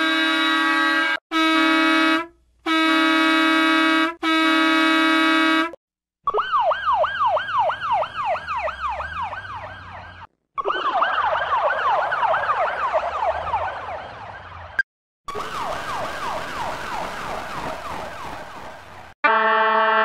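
A bus's multi-tone horn sounds in four long blasts, then three emergency-vehicle sirens follow one after another, each a fast warble of three or four rising and falling sweeps a second lasting about four seconds, the last one with more hiss behind it.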